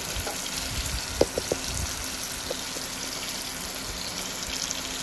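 Chopped tomatoes and masala sizzling in oil in a pressure cooker pot, a steady frying hiss. A few sharp clicks of a metal ladle against the pot come about a second in.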